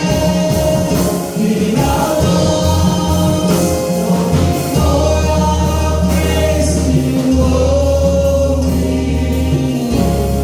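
Choir singing gospel music with instrumental accompaniment and a steady bass line.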